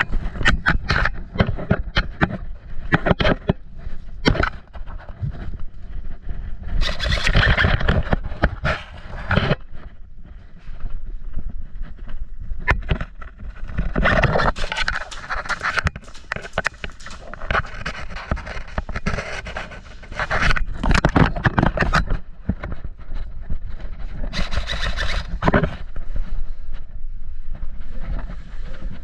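Handling and movement noise on a body-worn action camera during airsoft play: sharp clicks and knocks, thickest in the first few seconds, over a steady low rumble, with stretches of scraping noise.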